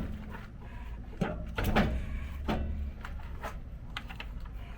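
A few separate clinks and knocks of hand tools and metal parts during repair work on a truck's starter wiring, over a low steady hum.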